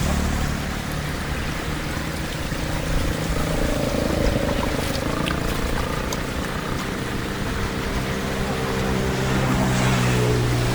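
Floodwater rushing and pouring as it drains, with a steady low hum underneath whose pitch shifts a few times.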